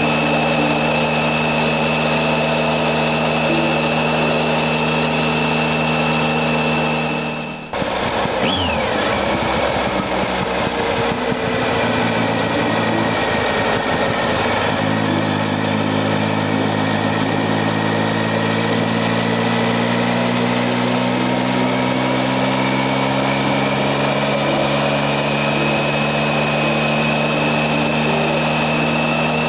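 Triumph Tiger 800 XC's three-cylinder engine running under way, with heavy wind and road noise at the rider's position and a steady high whine. A cut about eight seconds in; after it the engine note slowly rises as the bike gathers speed.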